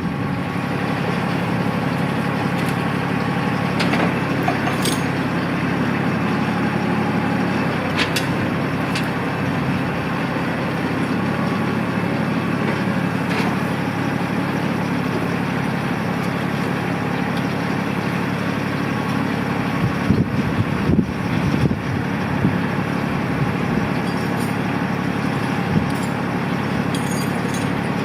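Tractor engine running at a steady speed, with a few light clicks and knocks over it.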